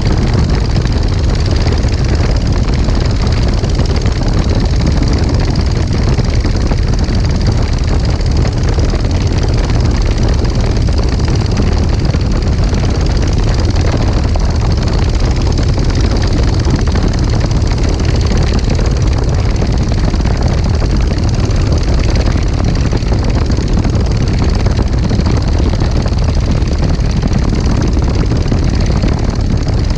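Legal Eagle XL ultralight's engine and propeller running steadily in flight, mixed with a heavy rush of wind noise.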